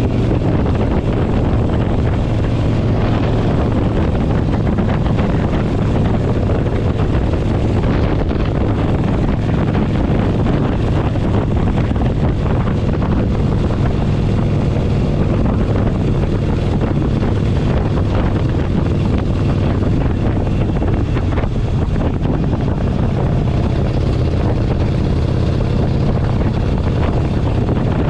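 Harley-Davidson Forty-Eight Sportster 1200's air-cooled V-twin running steadily as the bike is ridden along, with heavy wind noise on the microphone.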